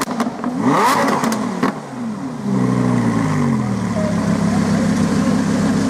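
Lamborghini Huracán V10 engine blipped up about a second in, with sharp exhaust pops and crackles as the throttle closes, then the revs fall away and it settles to a steady idle.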